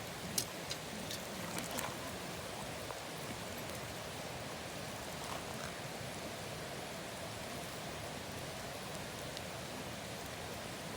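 Bonfire burning with a steady hiss, with a few sharp crackles in the first two seconds.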